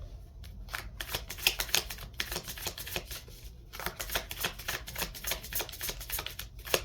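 A deck of tarot cards being shuffled by hand: quick papery flicks and clicks in two runs, with a short pause about halfway.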